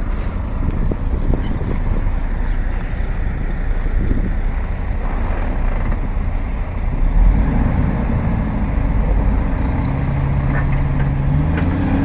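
MAN 6x4 truck's diesel engine running hard under load while trying to tow a stuck truck out of snow. It surges about seven seconds in and revs up with a rising pitch near the end.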